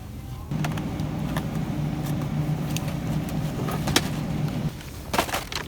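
A steady low mechanical hum that starts abruptly about half a second in and stops shortly before the end, with scattered sharp clicks and a few more near the end.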